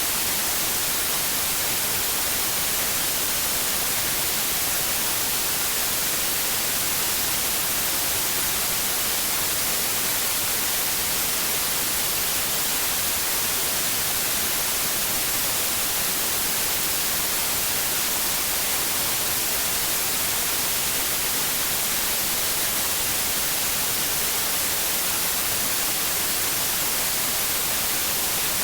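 Continuous white noise: a steady, even hiss, brightest in the highs, with no change.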